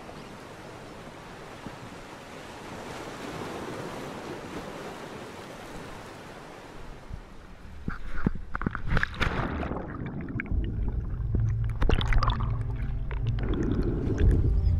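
Steady rush of wind and waves for about seven seconds. Then it changes: a run of sharp knocks and clicks, and a louder, deeper sound that builds toward the end.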